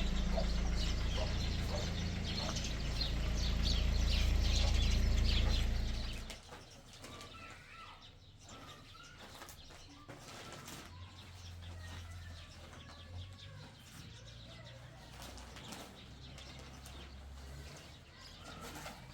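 Loud low rumbling noise with crackling for about six seconds that drops away suddenly, leaving faint bird calls.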